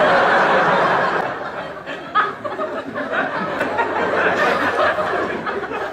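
Studio audience laughing, loudest at the start and easing off slightly after about a second.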